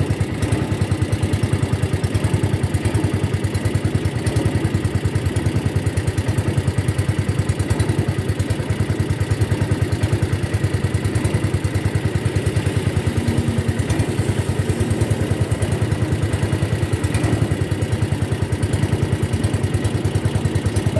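Boat engine running steadily with a rapid, even chugging.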